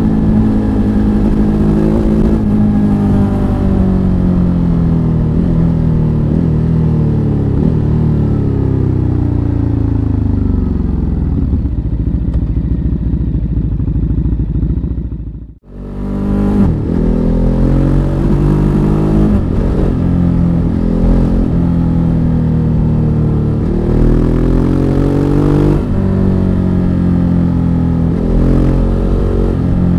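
Ducati Hypermotard 939's L-twin engine running under way. Its revs fall slowly over the first half as the bike rolls off. The sound cuts out for an instant about halfway, then the engine pulls hard through several rising rev sweeps, one gear after another.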